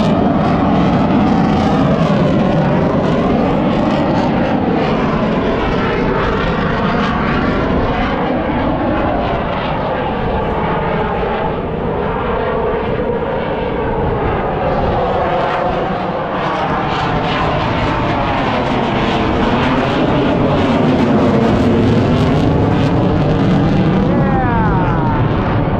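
Airplane engine running loud and steady, its pitch slowly rising and falling over and over, with a quicker sweep near the end.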